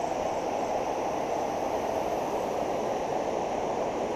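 Fast-flowing floodwater in a creek, rushing steadily.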